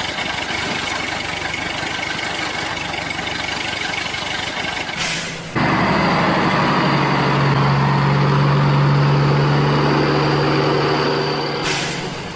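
A vehicle engine running steadily. About five seconds in there is a brief whoosh, and the sound turns into a louder, steady engine hum with a low drone, which fades near the end.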